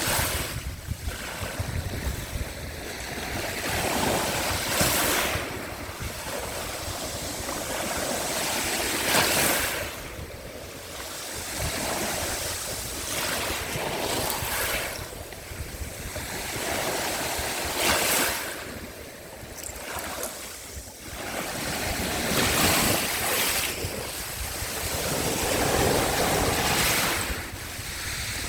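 Small waves of the Sea of Azov washing onto the shore, a surge swelling and falling back every few seconds, with wind on the microphone.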